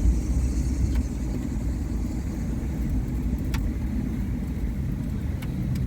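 Steady low rumble of a car driving, its road and engine noise heard from inside the cabin, with a couple of faint ticks.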